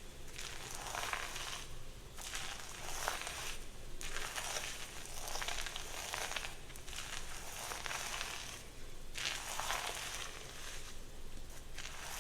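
Shampoo lather crackling as hands scrub it through wet hair, in repeated passes about every two seconds.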